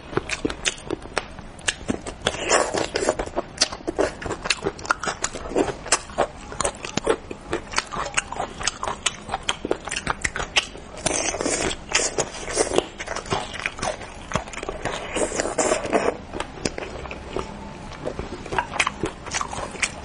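Close-miked mouth sounds of eating braised stingray: many quick chewing clicks and smacks, with several longer, denser stretches.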